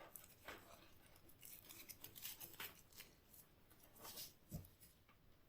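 Faint metallic clicks and short scraping strokes of a pair of restored wire cutters being handled and worked, with a soft thump about four and a half seconds in.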